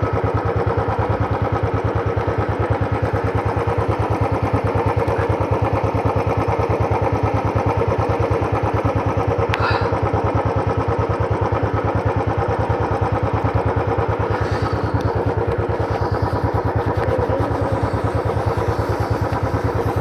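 Motorcycle engine running at steady revs, with a brief click about ten seconds in.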